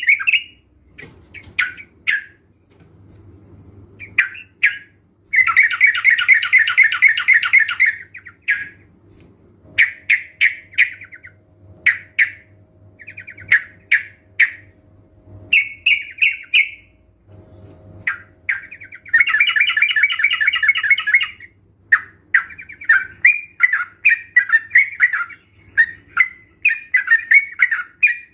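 Yellow-vented bulbuls (trucukan) calling in rapid chattering trills. There are two longer dense runs of about three seconds each, with shorter bursts of notes between them.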